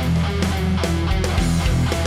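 Distorted electric guitar played through a digital amp simulator over a heavy rock backing track with drums, the guitar holding low notes under a steady beat.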